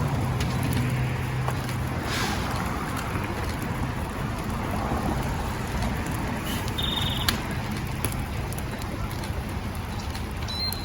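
Steady hiss and splatter of water from a fire hose stream hitting a burning Chevy Tahoe, with a low steady engine hum underneath.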